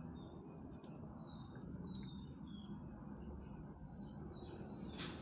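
Small birds chirping faintly: short, high, falling chirps repeated every second or so, over a low steady background hum, with a few light ticks.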